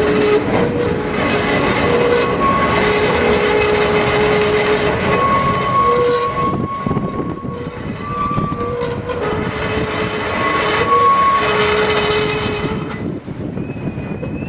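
Tram running on rails, its wheels squealing in on-and-off piercing tones that shift slightly in pitch over a steady rumble of the running gear.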